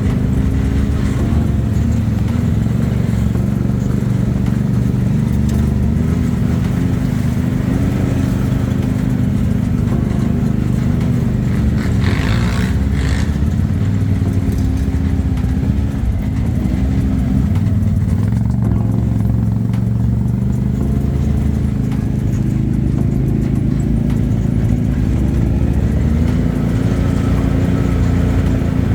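ATV engine running under way as a quad is ridden, its pitch rising and falling a little with the throttle. A brief noisy rasp sounds about twelve seconds in.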